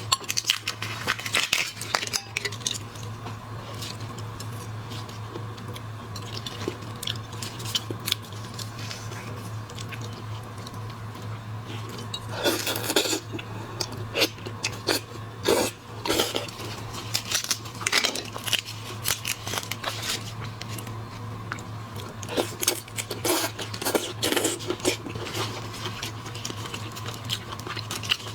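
Close-miked eating of shellfish: chewing and crunching in irregular bursts of crackles, over a steady low hum.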